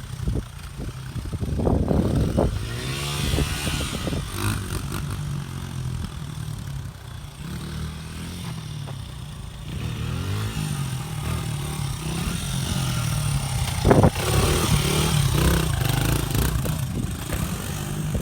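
Pit bike engine revving up and down repeatedly as it is ridden, with a sharp knock about fourteen seconds in.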